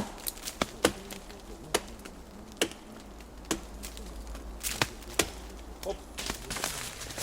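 A blade chopping into chaga fungus on a birch trunk: about a dozen sharp, irregular knocks, roughly one every half second to a second.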